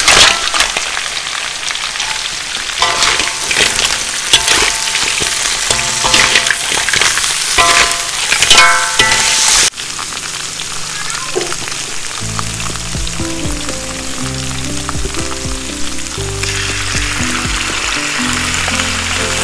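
Food sizzling in a hot pan while a utensil stirs and scrapes it. About halfway through the stirring stops and the sizzle goes on steadily under background music.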